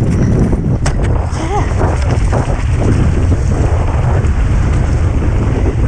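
Heavy wind buffeting on a helmet or bike-mounted camera's microphone during a fast mountain-bike descent, with knocks and rattles from the bike going over rough ground, one sharp knock about a second in.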